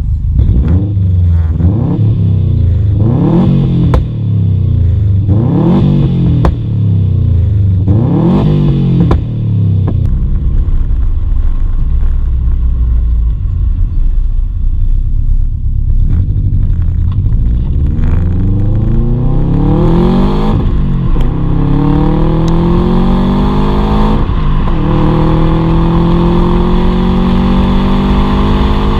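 2005 Subaru Impreza WRX turbocharged flat-four through a decatted exhaust with a Cobra Sport rear silencer. It is blipped sharply about five times, settles to a steady idle, then the revs climb in long rising sweeps with a sudden drop partway through, like a gear change under acceleration.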